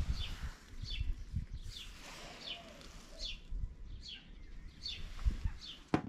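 A small bird chirping over and over, short chirps that fall in pitch, roughly two a second, with low rumbling thumps underneath.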